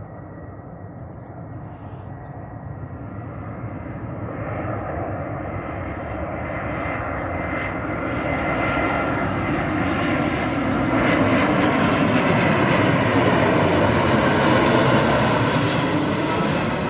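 Airbus A320 jet airliner's engines growing steadily louder as it approaches and passes, with a steady high whine over the rush. The sound peaks near the end, its tone sweeping as the aircraft goes by.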